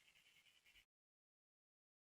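Near silence: a very faint hiss for under a second that cuts off abruptly, then dead digital silence.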